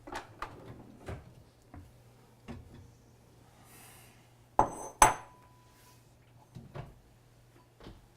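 Crockery being handled: scattered small knocks and clatter, then two loud clinks of dishes set down about halfway through, the second one ringing briefly.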